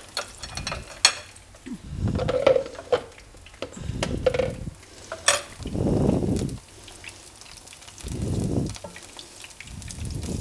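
Flour-coated enoki mushrooms sizzling as they fry in hot oil in a pan. Tongs clink against the pan a few times. Several dull low rumbles come and go.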